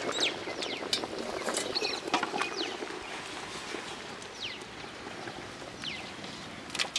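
Small birds chirping: short, quick, downward-sliding calls, scattered irregularly, over a low steady hiss.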